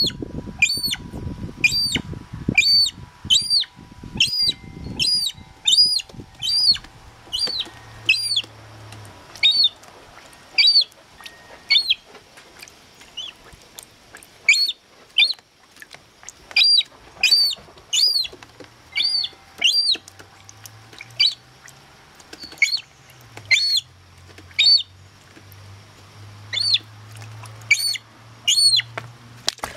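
Young gull chick piping over and over: short, high, arching whistled calls, about one or two a second.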